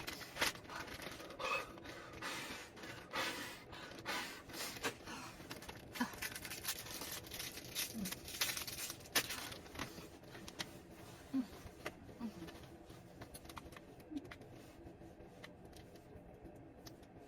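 Quiet, irregular rustling, scraping and clicking, like things being handled, with a few brief faint pitched sounds.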